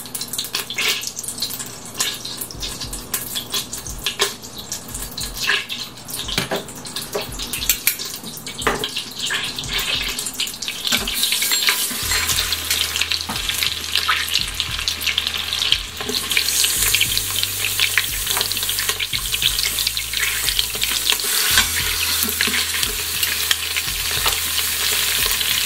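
Scattered clicks and taps of handling, then, from about halfway through, turkey wings sizzling in hot olive oil and butter in a stainless Instant Pot inner pot on sauté. The sizzle grows louder and fuller toward the end, with metal tongs clicking against the pot.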